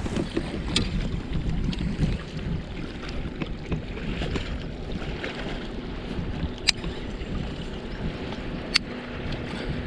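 Water and movement noise on a fishing kayak, with wind on the microphone. A few sharp clicks stand out, about a second in, near seven seconds and near nine seconds.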